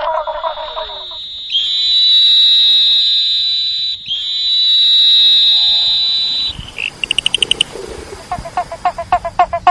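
Frogs and toads calling. A low, rapidly pulsed call stops about a second in. Two long, high-pitched steady trills of about two and a half seconds each follow, then a brief fast series of clicks, and a rapidly pulsed call starts again near the end.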